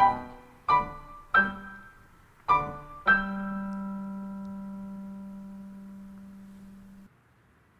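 Piano music: a few single notes struck one after another, then a final chord left to ring and slowly die away, cut off about seven seconds in.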